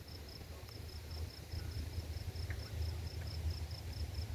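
Crickets chirping in a steady, even rhythm of short high-pitched pulses, about four a second, over a low rumble.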